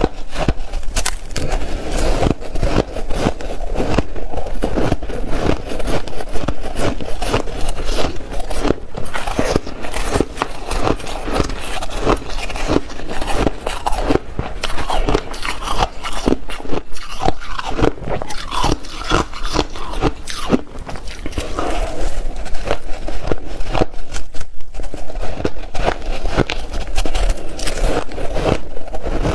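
Ice being bitten and chewed: a continuous run of irregular crunches and crackles.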